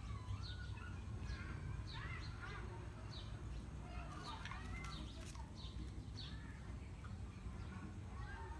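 Birds chirping repeatedly, many short calls, over a steady low rumble.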